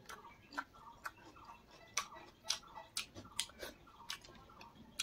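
A person chewing food with irregular sharp mouth clicks and smacks, a few each second.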